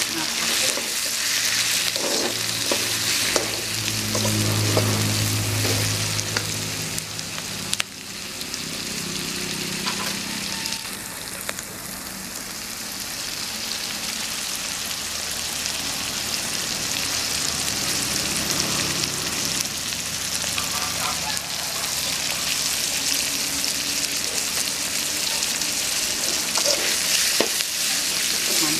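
Chopped onions, tomatoes and green chillies sizzling steadily in hot oil in a wide metal kadai, stirred with a long steel spoon that scrapes and knocks against the pan.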